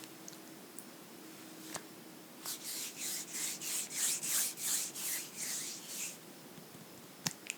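Scratching on a book's surface in a run of about a dozen quick rasping strokes, about three a second, with a sharp tap near the end.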